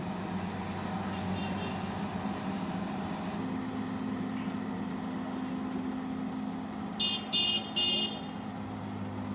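Diesel engine of a JCB excavator running steadily, with a horn tooting three short times near the end.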